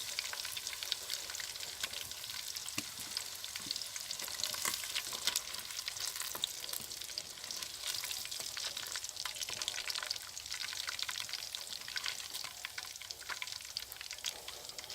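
Chicken pieces frying in hot oil: a steady sizzle with many small crackling pops.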